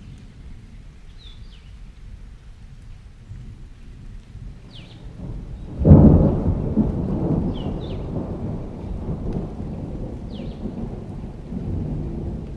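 Thunderstorm ambience: a low rumble of thunder over rain, with a sudden loud thunderclap about halfway through that rolls on and fades over several seconds. Birds chirp briefly a few times.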